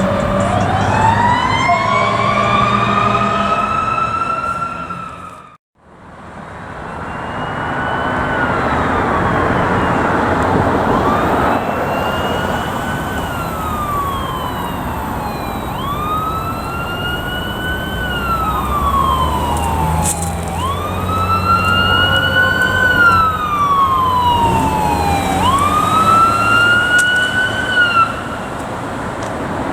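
Fire truck sirens on an emergency response. One siren winds up in a long rising glide, then after a sudden break an electronic wail rises quickly and falls slowly about every five seconds, over a low engine rumble.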